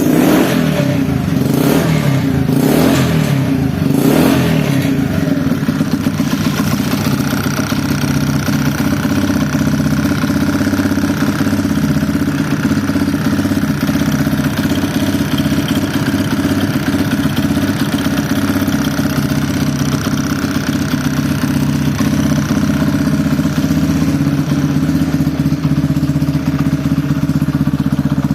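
Motorcycle engine and exhaust: the throttle is blipped about four times in the first few seconds, each rev rising and falling quickly, then the engine settles into a steady, evenly pulsing idle.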